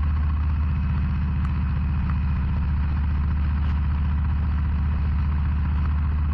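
Harley-Davidson Low Rider ST's Milwaukee-Eight 117 V-twin running steadily at a low, even cruising speed, its exhaust pulsing evenly without revving up or down.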